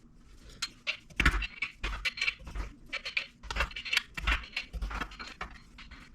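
Metal engine parts and tools clinking and knocking as they are handled, an irregular run of sharp clanks with a few heavier thuds.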